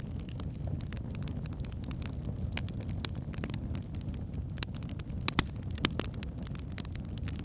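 Wood fire burning in a fireplace: a steady low rumble of the flames with scattered sharp crackles and pops from the logs, two of them louder about two thirds of the way through.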